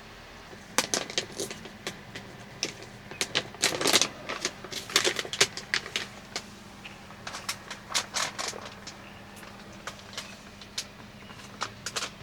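A run of irregular light clicks and clatter, like small hard things being handled, starting about half a second in and thinning out towards the end.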